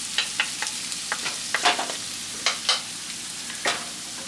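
Garlic sizzling as it fries in a pan, with a steady hiss. A utensil clicks and scrapes against the pan many times as it is stirred.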